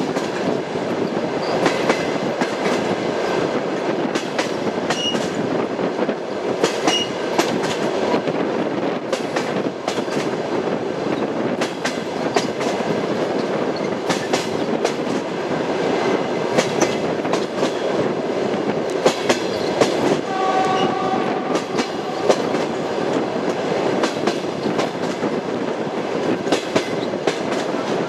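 Train wheels running over the rails: a steady rumble with a continual irregular clatter of clicks and knocks from the wheels on the track. About twenty seconds in a short pitched tone sounds briefly over it.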